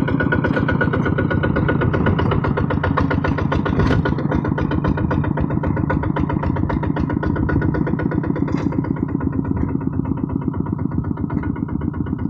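Kubota RT155 single-cylinder diesel engine on a walking hand tractor running steadily, with a fast, even firing beat.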